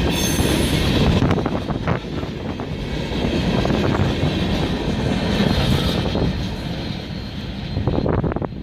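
A train rolling past: the steady rumble of rail cars and their wheels on the track.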